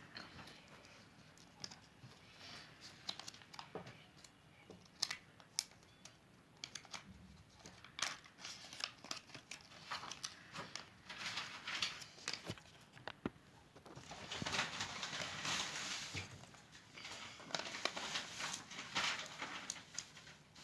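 Foil wrapper of a Kinder Surprise chocolate egg being crinkled and torn off, with scattered sharp crackles. There are longer stretches of crinkling about two-thirds of the way through and again near the end.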